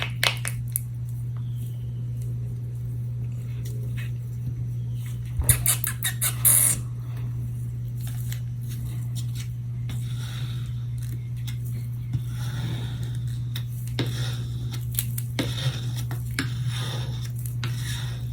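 Small clicks, taps and scrapes of plastic mixing cups, a pigment bottle and a stir stick being handled while black pigment is added to epoxy resin, with a burst of sharper clicks about five and a half seconds in. A steady low hum runs underneath.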